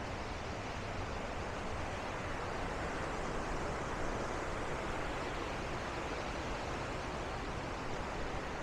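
Steady rushing of white water at Bow Falls on the Bow River, an even roar without a break.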